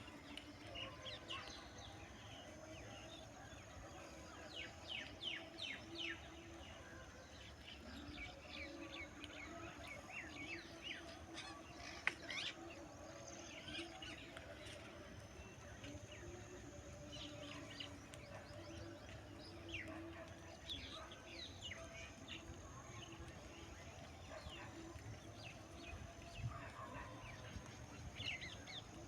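Small birds chirping outdoors: clusters of short, high chirps come and go, over a faint low hum. There is one sharp click about twelve seconds in.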